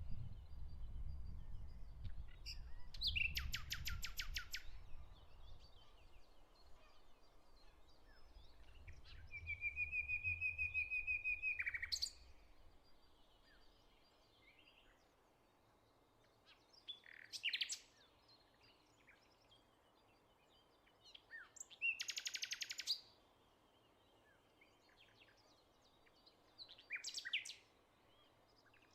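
Wild songbirds calling and singing: a rapid trill about three seconds in, a long, level high trill from about nine to twelve seconds, another rapid trill a little past twenty seconds, and short chirps between. A low rumble runs under the first ten seconds or so.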